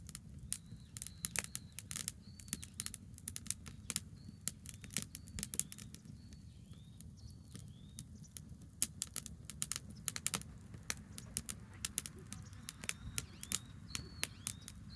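Campfire of burning branches crackling, with sharp irregular pops over a low steady rumble. A bird calls with short high arched notes, repeated in a run over the first half and again near the end.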